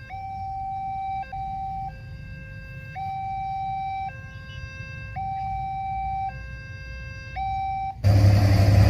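Electronic two-tone level-crossing warning alarm sounding, alternating a higher and a lower note about once a second, which signals that a train is approaching. Near the end, the loud rumble of a train cuts in abruptly.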